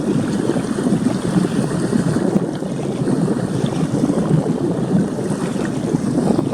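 Steady rushing noise of wind buffeting the microphone, mixed with the wash of sea surf.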